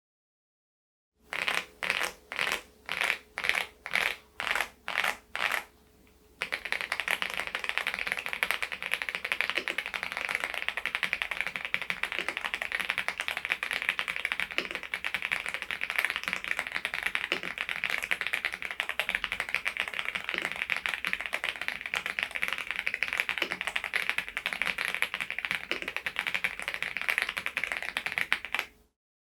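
Rapid typing on an AULA F99MAX mechanical keyboard fitted with silent linear switches. It opens with a run of about ten evenly spaced strokes, about two a second. After a brief pause comes a long stretch of fast, continuous key clatter that stops suddenly near the end.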